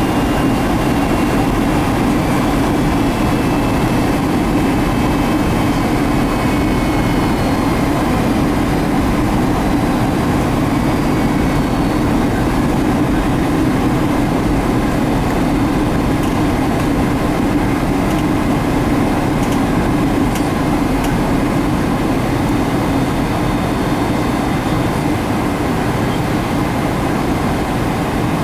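Steady jet engine and airflow noise of a Boeing 757-200 heard inside the cabin, with faint whining tones falling in pitch during the first ten seconds or so.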